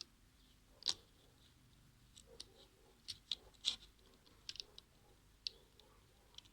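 Scattered light clicks and taps from a small plastic model truck being handled, irregular, with the sharpest about a second in and just before the middle.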